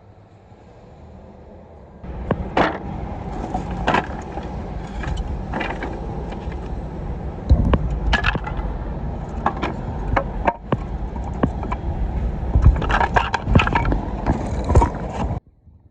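Firewood cracking and snapping in a loud, irregular series of sharp cracks and knocks. It starts about two seconds in and cuts off abruptly near the end.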